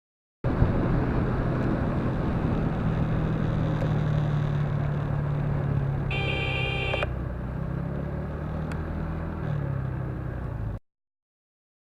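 Road and engine noise of a moving car picked up by a dash camera, with a steady low drone. A car horn blares for about a second midway. The sound starts and stops abruptly at the clip's edits.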